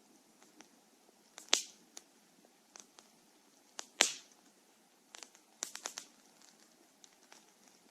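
Burning firewood crackling: scattered small crackles over a faint hiss, with two loud sharp pops about two and a half seconds apart and a quick run of smaller pops a couple of seconds later.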